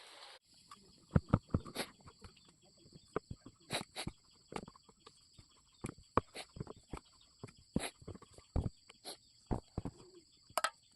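Irregular light clicks and knocks, about two a second, of kitchen utensils and dough work on a board as momo dough is rolled out and filled.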